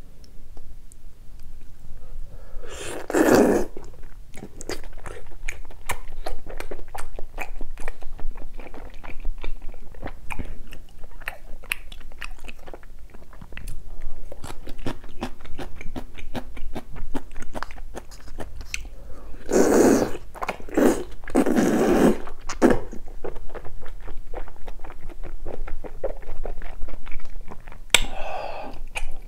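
Close-miked mouth sounds of eating thick, chewy bunmoja noodles from a spicy stew: steady wet chewing and smacking, full of small clicks, with a few louder noisy bursts, three of them close together past the middle.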